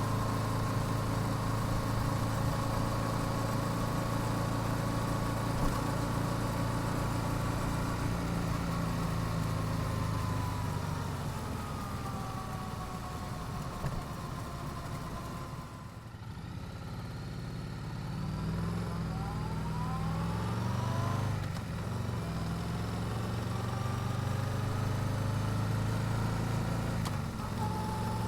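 Yamaha YZF-R7's parallel-twin engine on its stock exhaust, heard from the rider's position. It cruises steadily, then the revs fall away to a low point about halfway through. After that it revs up in a few rising pulls before settling back to a steady cruise.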